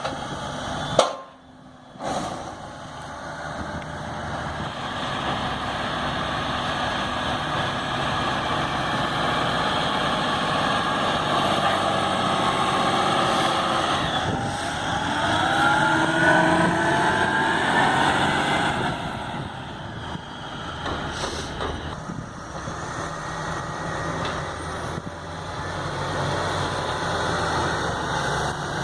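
Heavy diesel farm machinery running steadily, with a short break about a second in and a rising whine around the middle.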